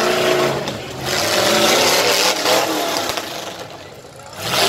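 Car and truck engines revving hard, a loud noisy din with shifting pitch that dies down about three and a half seconds in and picks up again near the end.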